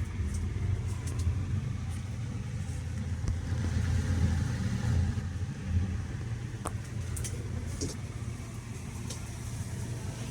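Maspion CEF-2008 ceiling exhaust fan running with a steady low hum and rush of air, with a few light clicks in the second half.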